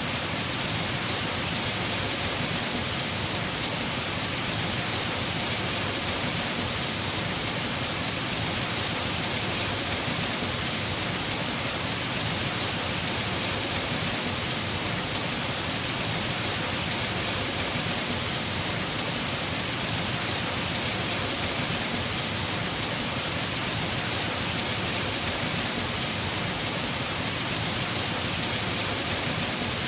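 Heavy rain falling steadily on a house roof, an even hiss with no breaks or single loud drops.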